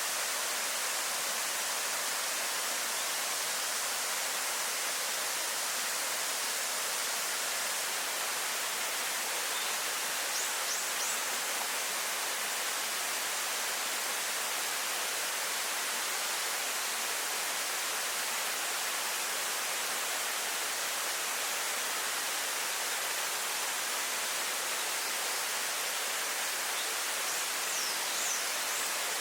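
Waterfall pouring steadily, a constant dense rush of falling water. Faint high chirps come twice, about ten seconds in and near the end.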